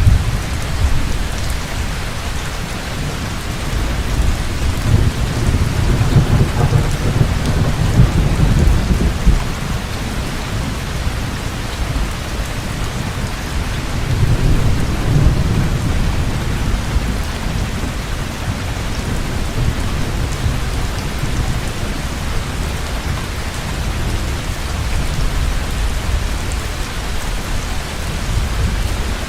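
Heavy rain falling steadily, with low thunder rumbling twice: a long roll about four to nine seconds in and a shorter one around fifteen seconds.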